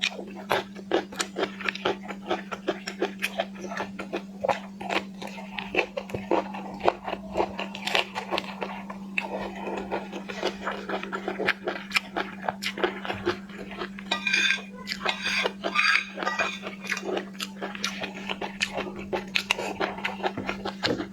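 Shellfish being eaten: a fast, irregular run of crunching, cracking and wet chewing clicks, with a burst of sharper crackling about two-thirds of the way through. A steady low hum sits underneath.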